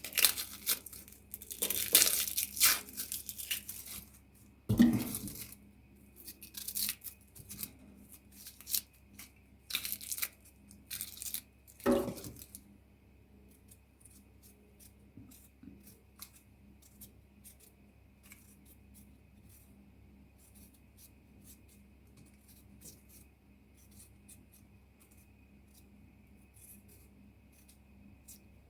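Loud irregular tearing and rustling in bursts, with a couple of sharp knocks, for about the first twelve seconds; after that only faint scattered small clicks and taps.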